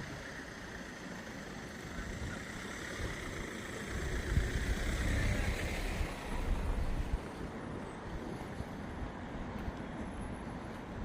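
A motor vehicle passing: a rumble that swells to its loudest in the middle and then fades, over steady outdoor street noise.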